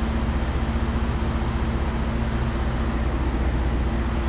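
Detroit Diesel 12.7-litre truck engine idling steadily in a semi tractor, a constant low hum with no change in speed.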